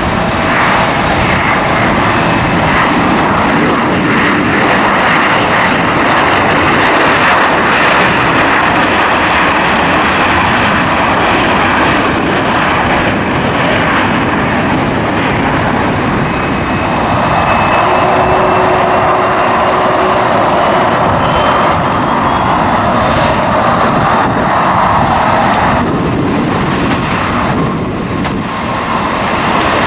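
Jet airliner engines running steadily. In the second half a thin whine rises steadily in pitch over several seconds.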